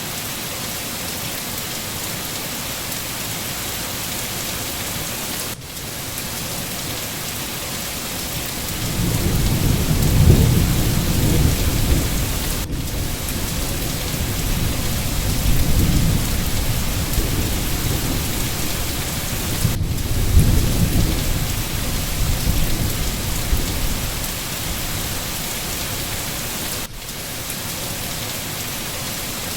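Steady rain falling, with thunder rumbling low underneath from about a third of the way in. The thunder swells three times and fades out a little before the end.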